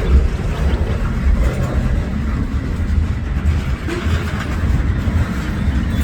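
Train passing a crossing: a steady, loud, low rumble with a rough hiss above it and no clear bell or horn tone.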